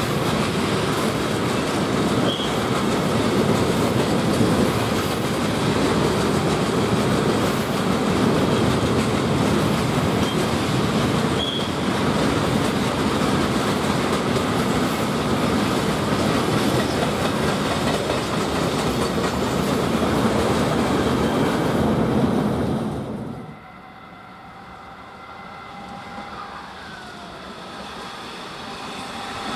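A long freight train of open wagons rolling past, a loud steady rumble of wheels on the rails with a few brief high squeaks. About 23 seconds in it cuts off abruptly to a much quieter diesel railcar approaching, its steady engine hum growing louder toward the end.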